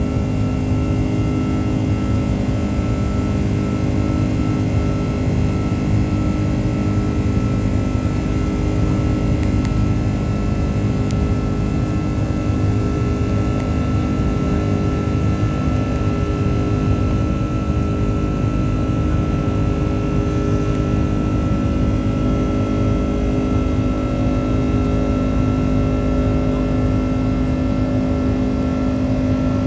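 Airbus A330 jet engines at takeoff power heard inside the passenger cabin: a steady, even roar with a constant hum and a thin high whine.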